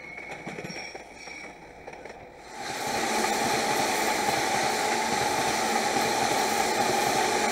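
A quieter yard background with faint high tones, then about two and a half seconds in, a sudden change to the steady, loud rolling noise of an electric commuter train passing close by, a Keihin-Tohoku Line E233 series set.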